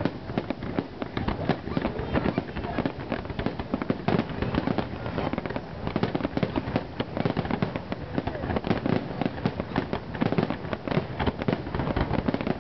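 Fireworks going off in a rapid, continuous run of bangs and crackles, with no pause between bursts.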